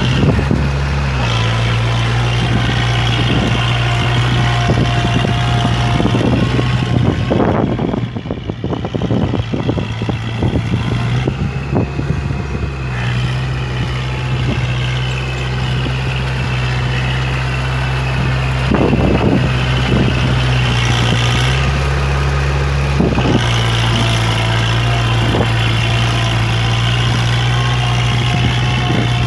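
Kubota MU4501 tractor's four-cylinder diesel engine running steadily under load while puddling in wet mud. Its note drops and rises again a few times, with short irregular clatters over it.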